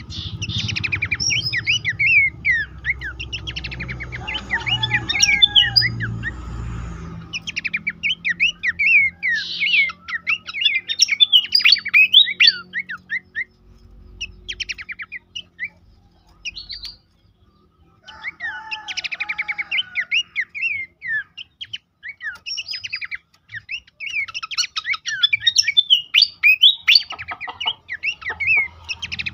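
Pelanduk semak (a babbler) calling, used as a training song for caged birds: rapid bursts of sharp chirps and short whistled notes, broken by a few brief pauses. A low rumble runs underneath for the first several seconds.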